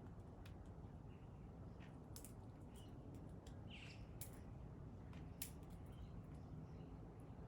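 Faint, soft chirps from a pale-headed rosella, one short call about four seconds in, among scattered quiet clicks over a low steady hum.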